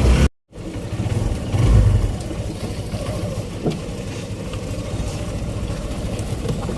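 Motor vehicle running with a steady low engine and road rumble, swelling louder briefly about a second and a half in, after a moment of dead silence at the start.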